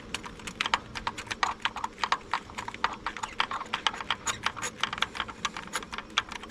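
Hand ratchet clicking rapidly and unevenly as it is worked back and forth, a quick run of sharp clicks, about ten a second.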